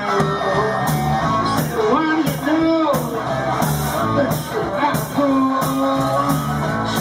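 Live rock-and-roll band playing an instrumental break: a steady beat with cymbal strokes about twice a second under a lead line of bending notes.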